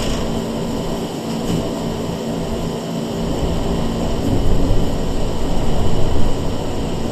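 Interior sound of a Sangi Railway 101 series (ex-Seibu 401 series) electric train: a steady rumble from the car with a low hum that dies away about four seconds in.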